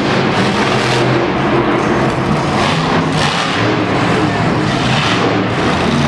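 Monster truck engine revving loudly, its pitch rising and falling, over a steady wash of arena noise.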